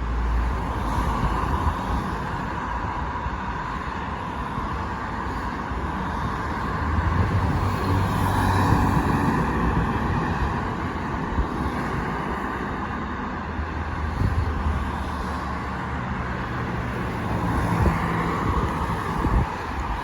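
CN mixed freight train rolling past, a steady rumble of wheels on rail with a low engine drone swelling about a third of the way in and again later.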